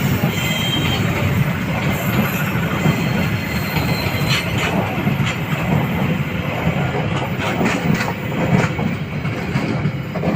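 A moving train running on the rails: a steady rumble with scattered sharp clicks from the wheels, a few about halfway through and more later on.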